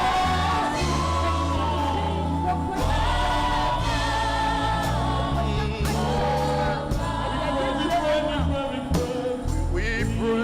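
Live gospel praise music: a choir and congregation singing with instrumental accompaniment, sustained low notes underneath.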